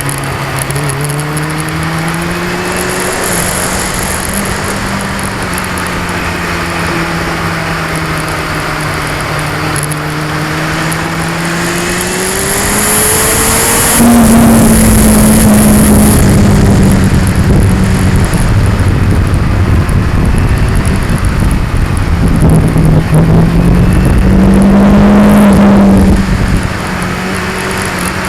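2002 Yamaha R6's inline-four engine running under way, its pitch slowly rising and falling with engine speed, through an action camera's microphone that picks up vibration. About halfway in, a loud rushing noise rises over the engine for some twelve seconds, then drops back near the end.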